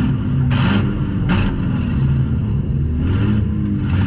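Demolition derby car's engine running and revving up and down, heard from inside the cabin. Two short, harsh bursts of noise come in the first second and a half.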